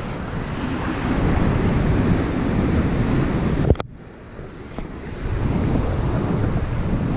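Steady rush of a creek waterfall, with wind buffeting the microphone. Just after halfway there is a sharp click and the rush drops suddenly, then builds back up.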